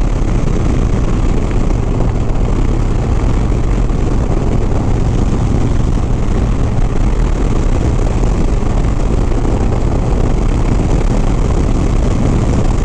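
Harley-Davidson Sport Glide motorcycle riding at highway speed: a steady rush of wind and road noise over the V-twin engine's drone.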